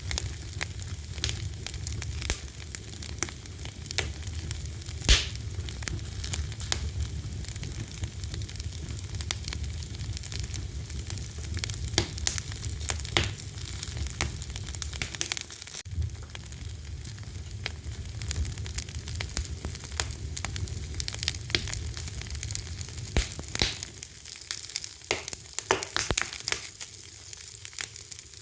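A fire crackling steadily with many small pops and one sharp, louder pop about five seconds in, over a low rumble that fades out near the end.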